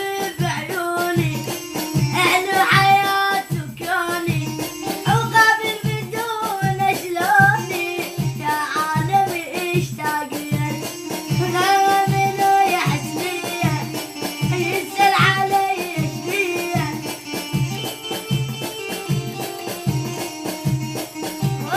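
Child singing an Iraqi song, the melody bending and held over a steady low percussion beat about twice a second.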